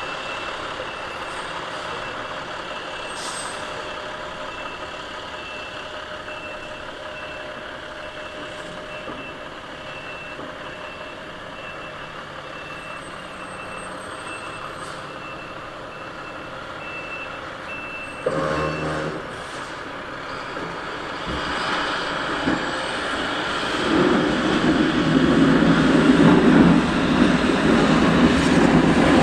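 Plow truck's reverse alarm beeping steadily, about one to two beeps a second, over the running engine. The beeping stops with a short loud burst about two-thirds of the way in. The engine and plowing noise then build and are loudest near the end.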